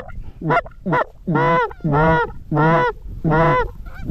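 A run of loud goose honks, about six in four seconds, each breaking from a low note up to a higher one.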